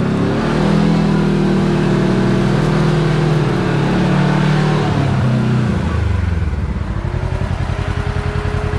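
Side-by-side UTV engine running steadily on the trail, then easing off about six seconds in to a lower, pulsing engine speed.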